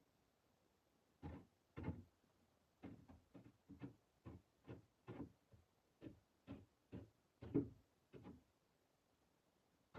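A run of about fifteen soft, short thuds, roughly two a second and unevenly spaced, starting about a second in and stopping near the end.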